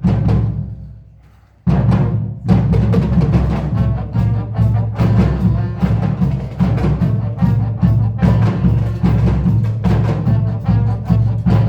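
Marching band playing loud, heavily percussive music, drums to the fore: a big accented hit rings away for about a second and a half, then the full band comes back in with driving, rhythmic drumming.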